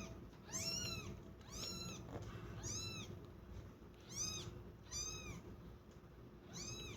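Kittens meowing at feeding time: about six short, high-pitched meows, each rising and falling in pitch, coming roughly one a second.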